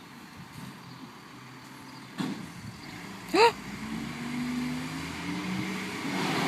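Garbage truck's diesel engine approaching, its low drone growing steadily louder over the second half. A brief high squeal cuts in about three and a half seconds in.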